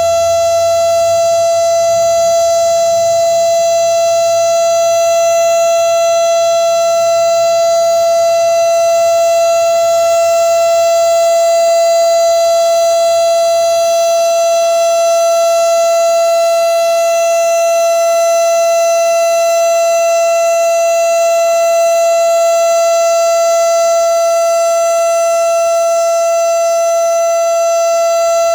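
Outdoor civil defense warning siren sounding a loud, steady tone, held at one pitch throughout: the tornado warning signal being tested in a drill.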